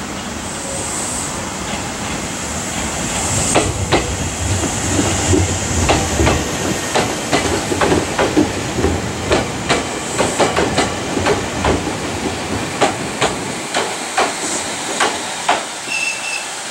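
Izukyu 8000-series electric train pulling into the station and rolling past close by: a steady rumble and hiss of wheels on rail, with a rapid, irregular run of wheel clicks over the rail joints that grows in the middle and thins out near the end as the train slows.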